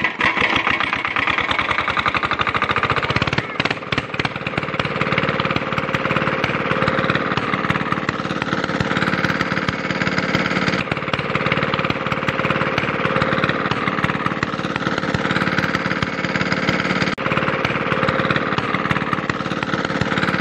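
Miniature model diesel-engine water pump running steadily with a rapid, even chugging rattle.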